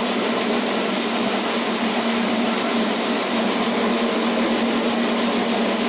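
CMA commercial dishwasher running, a steady rush of water and motor noise with a constant hum through it. The racket comes from the wash pump motor, which the installer takes for a bad bearing.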